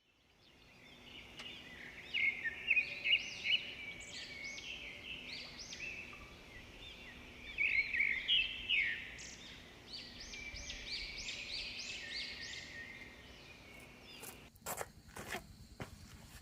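Songbirds singing and chirping, with rapid runs of quick, arching high notes and louder phrases about two and eight seconds in. A few sharp knocks follow near the end.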